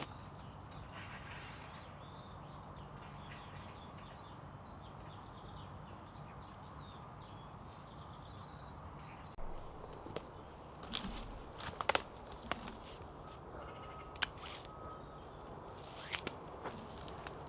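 Birds calling in woodland over a steady background hiss, many short quick chirps. About halfway through, a run of irregular knocks and clatters starts, loudest a couple of seconds later.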